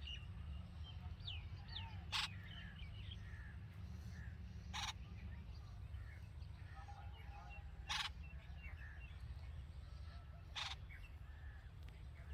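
Birds at a red-vented bulbul nest: many short chirps and twittering notes, with a harsh rasping call repeated four times, about every two and a half to three seconds, that stands out as the loudest sound. A steady low rumble runs underneath.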